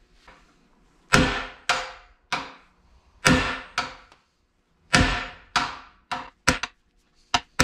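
Hammer blows on a bearing driver, driving a new bearing into the bore of a CAT D4D diesel engine block: about ten sharp, ringing strikes, loosely in groups, coming faster near the end.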